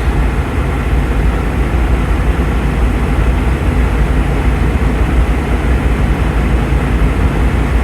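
Steady low rumble of an idling semi-truck diesel engine.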